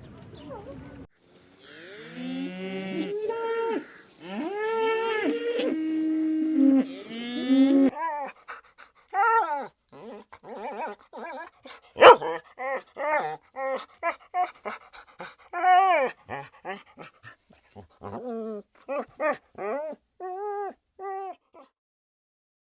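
Dog whining and howling in long gliding cries, then, from about eight seconds in, a run of short pitched yelps and barks, roughly two a second.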